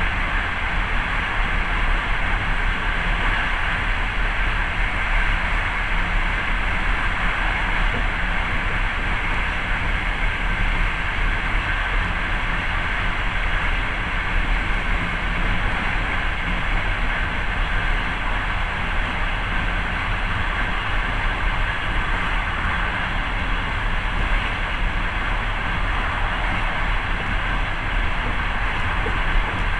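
Passenger train running steadily along the track, a continuous rumble and rush of wheels on rails heard from inside the carriage.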